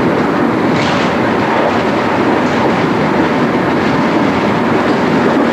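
MI79 electric multiple unit running at speed, heard from the driver's cab: a steady loud rumble and rattle of wheels on rail, with a few short sharp clicks, the clearest about a second in.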